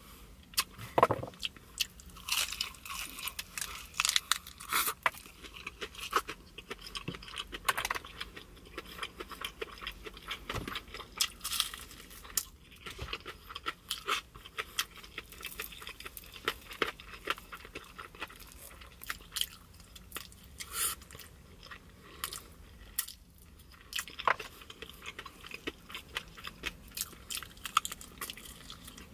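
A person biting and chewing crispy fried chicken close to the microphone: irregular sharp crunches of the fried coating, with chewing between bites.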